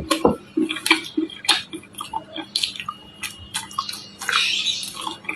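Close-miked chewing of crunchy nut-filled chocolate chunks: irregular crunches and clicks with wet mouth sounds, and a short hissing stretch about four seconds in.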